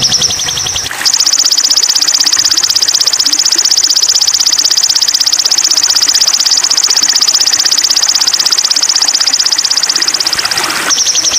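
A shrill, fast-pulsing trill, a steady stream of rapid pulses high in pitch, starting about a second in and cutting off near the end. A slightly lower pulsing trill fades out just before it.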